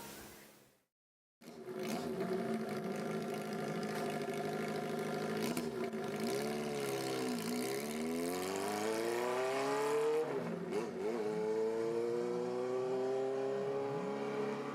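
Honda CB400Four's air-cooled inline-four engine under way, starting after a brief silence about a second in. It holds steady, then dips and rises in pitch as it accelerates, drops sharply with a gear change around ten seconds in, and climbs again.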